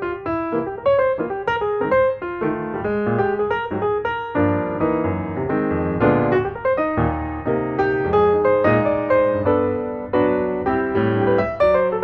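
Background piano music, a busy run of notes played continuously.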